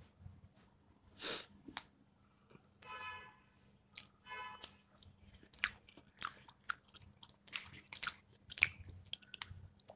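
Close-up chewing of fresh-cut fruit, mostly watermelon and pineapple, with wet crunching bites coming in clusters, busiest in the second half. Two short pitched sounds come about three and four and a half seconds in.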